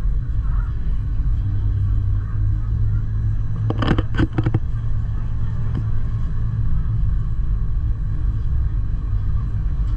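Gornergrat Bahn electric rack-railway train running with a steady low rumble. A quick run of four or five sharp clacks comes about four seconds in.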